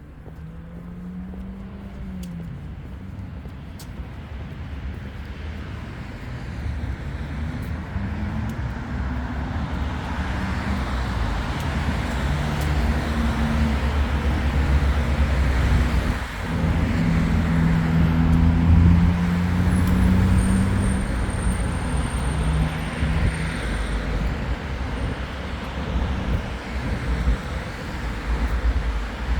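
Road traffic: a motor vehicle's engine and tyres on the road, growing louder as it passes close, loudest about two-thirds of the way through, then easing slightly.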